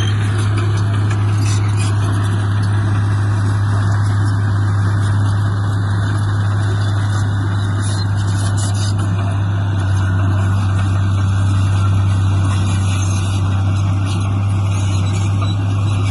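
Heavy diesel engine of earthmoving machinery running steadily with a strong low hum.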